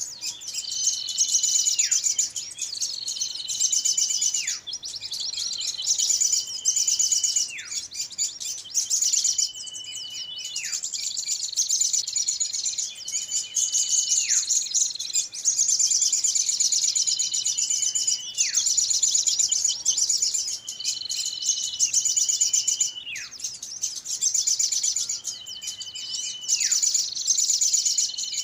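Bird-lure recording of agitated small birds: dense, rapid high chattering with a whistled note that holds steady and then slides steeply down, repeating about every two seconds.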